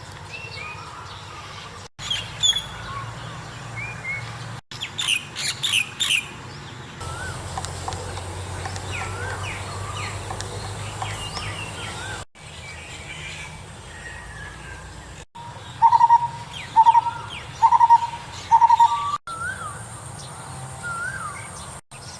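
Wild birds calling and chirping in a run of short edited clips that cut abruptly from one to the next. The loudest calls are four strong whistled notes in a row about two-thirds of the way in.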